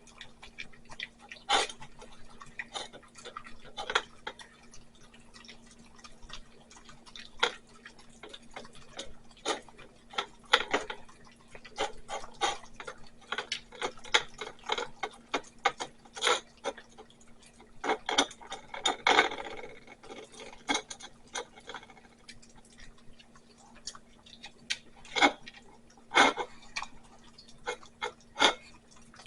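Two small dogs eating from dishes: irregular clicks, smacks and clinks of chewing and licking, with a longer scraping burst a little past halfway. A faint steady hum sits underneath.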